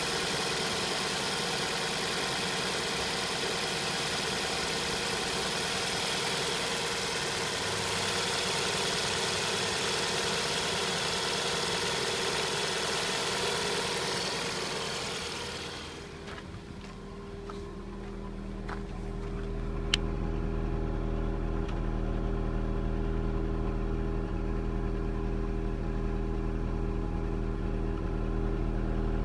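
VW Golf 5 1.4 TSI petrol engine running just after a cold start, with a harsh, hissy exhaust noise for about the first sixteen seconds; the owner's complaint is this noise and vibration from the exhaust on first start. Then the hiss dies away and the engine settles into a steady, lower idle hum, with a single click about twenty seconds in.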